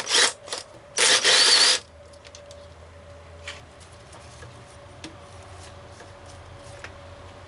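Ratchet wrench working loose 10 mm bolts: a few short bursts of clicking, then a loud rapid run of ratchet clicks about a second in. After that, only faint scattered tool clicks over a low steady hum.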